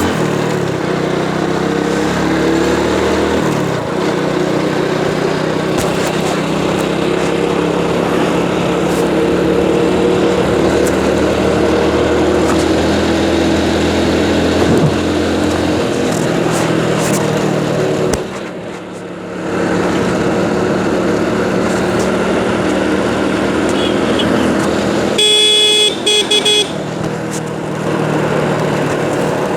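Hero motorcycle engine running under way, its pitch shifting a few times and easing off briefly about two-thirds of the way through. A vehicle horn sounds for about a second and a half near the end.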